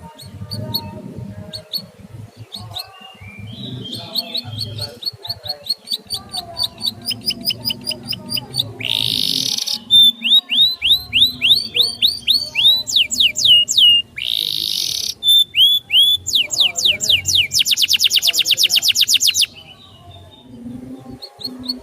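A small songbird singing a long, varied song of quick repeated whistled notes that sweep in pitch, broken by two harsh buzzy bursts, with a fast rapid trill near the end before it stops.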